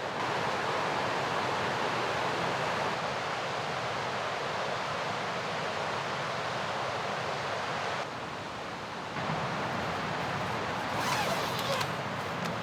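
Mountain river rushing in a steady roar, its level stepping abruptly up or down a few times. A brief wavering higher-pitched sound rises over it near the end.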